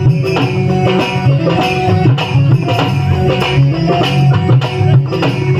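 Music with dholak drumming: a steady, fast rhythm of hand strokes with deep bass beats, over held melody notes.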